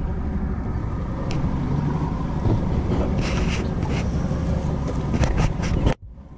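A boat's outboard motor running steadily, with a few clicks and knocks from handling on deck. The sound cuts off suddenly about six seconds in.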